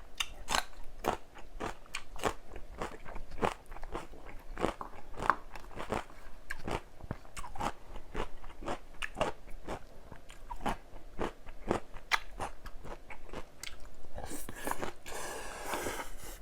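Close-miked chewing and crunching of crisp food, with sharp crunches about twice a second. Near the end comes a denser rustling, wet burst of noise.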